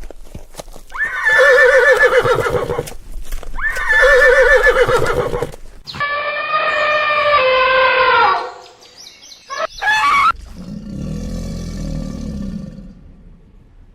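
Horse whinnying: two long, quavering neighs, followed after abrupt cuts by further, lower animal calls.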